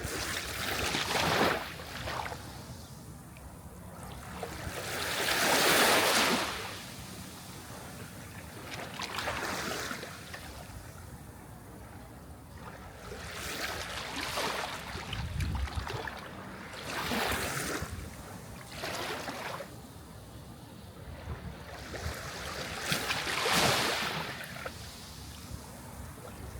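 Sea waves breaking and washing ashore, the surf swelling and falling away in a new surge every few seconds, the loudest about six seconds in.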